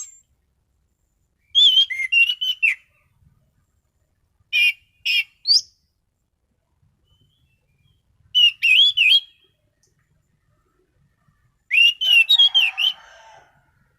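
Orange-banded thrush (anis cendana) singing: four short phrases of quick, clear whistled notes with pauses of about two seconds between them. The last phrase, near the end, has a rougher, lower rattle under the whistles.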